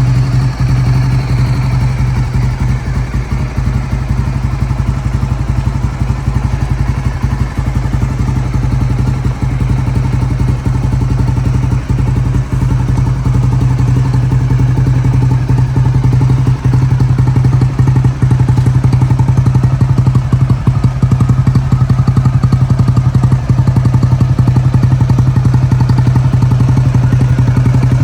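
Honda GB250 Clubman's air-cooled single-cylinder engine idling steadily, with an even exhaust pulse.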